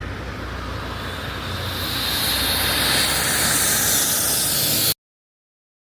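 Heavy truck on the road: a low engine hum under a hiss of tyre and road noise that grows louder from about two seconds in. It cuts off abruptly about five seconds in.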